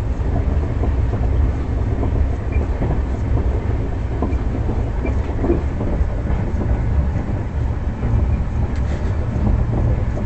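Indian express passenger train running along the track: a steady low rumble of the moving coaches, with faint wheel clicks.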